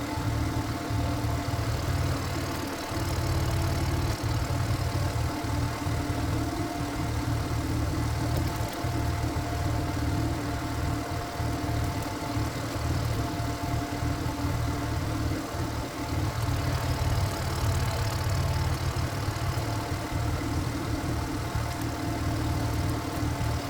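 Walking power tiller's single-cylinder diesel engine running steadily, powering the firewood-splitting work.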